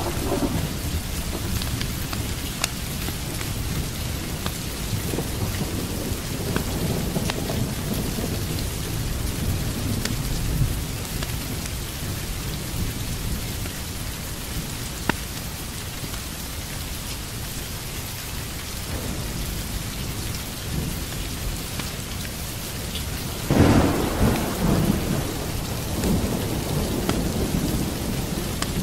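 Steady rain with rumbles of thunder rolling through, and a sudden louder thunderclap and rumble near the end.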